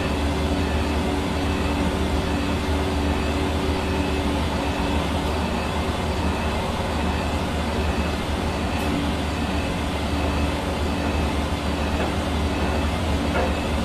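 Hair dryer running steadily: an even rush of blowing air over a constant low motor hum.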